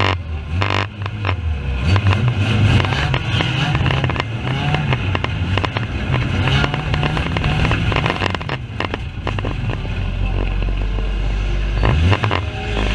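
Banger race car's engine running, its pitch rising and falling, with frequent knocks and rattles over it; the sound is rough and poor.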